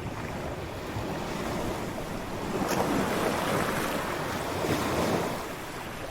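Ocean waves breaking on a shore as a rushing wash of surf, swelling to its loudest between about three and five seconds in, then easing off.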